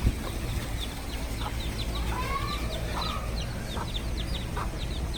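Chickens with chicks: a run of many short, high, falling peeps, with a few lower hen calls mixed in, over a low steady rumble.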